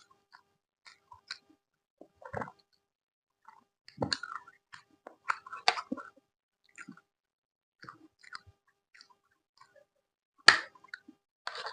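Close-miked chewing of food: short wet smacks and clicks of the mouth, in clusters, loudest around four to six seconds in and again near the end.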